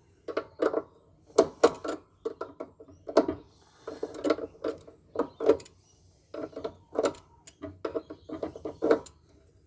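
Irregular sharp knocks and clanks, often in quick clusters, of tools working against the metal inside a scrapped solar inverter while a donut-shaped component is being worked free.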